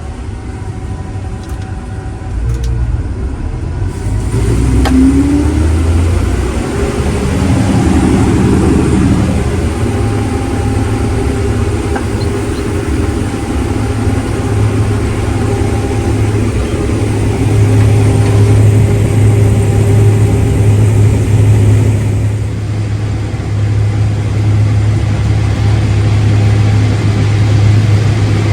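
Heavy farm vehicle engine running steadily with a low hum. It revs up about four to five seconds in, then settles into a steady drone.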